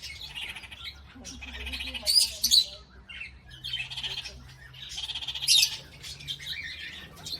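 Birds calling over and over, with the loudest calls about two seconds in and again about five and a half seconds in.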